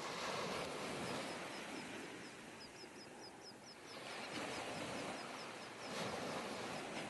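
Faint outdoor background with a bird giving a long run of quick, high chirps, several a second.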